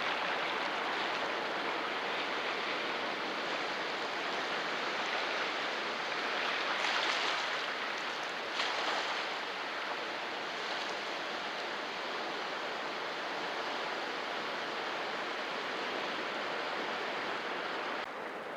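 Sea waves washing over rocks: a steady rushing surf that swells about a third of the way in, with a brief surge just after, and drops quieter just before the end.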